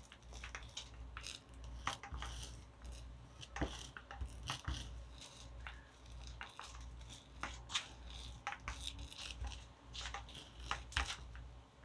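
Hand work spreading wet wood glue over burlap laid on styrofoam: irregular sticky scraping strokes and small clicks and crackles, with a low steady hum underneath.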